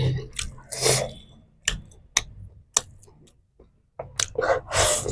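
Close-up mukbang eating sounds: wet mouth clicks and lip smacks while chewing, with two longer hissing breaths, about a second in and near the end.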